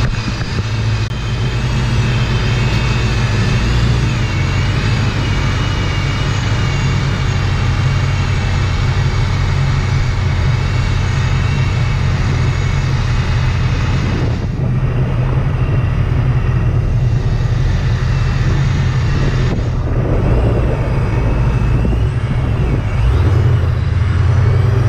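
Vortech-supercharged Ford Mustang GT driving, its engine running steadily under way.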